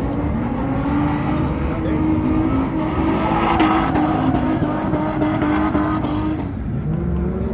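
Car engine running at high revs, its pitch climbing slowly, then falling away about six and a half seconds in before starting to climb again.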